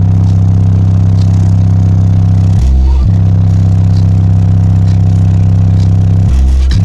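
Custom B2 Audio CC12 subwoofer powered by a Mono V4 amplifier playing very loud, sustained low bass notes. The held bass tone drops briefly to a deeper note twice, about two and a half seconds in and near the end.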